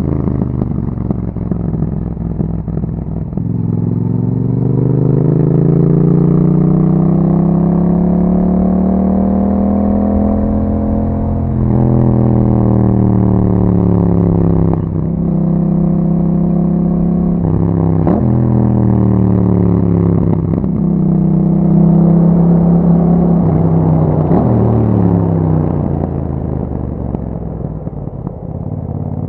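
A 2021 Yamaha MT-07's 689 cc parallel-twin engine running through an Akrapovic exhaust under riding. The engine note climbs for several seconds, drops sharply a few times as gears change, then falls away near the end as the bike slows.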